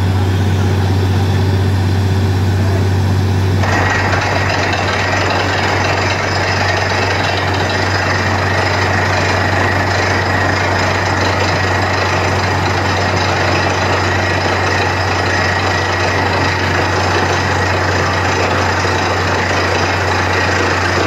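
Borewell drilling rig running: a steady low engine drone, joined about four seconds in by a loud, dense noise of the drilling that carries on over it.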